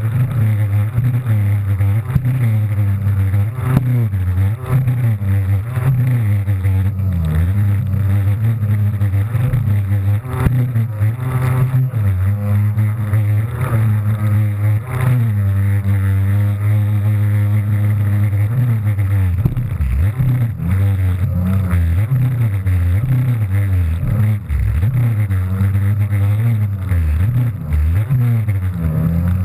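Kawasaki JS300 stand-up jet ski's two-stroke engine running hard, its pitch rising and falling again and again as the craft rides over waves.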